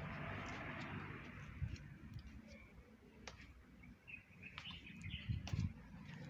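Small birds chirping briefly among a few sharp clicks, over a low hum. A rushing noise fades away over the first second and a half.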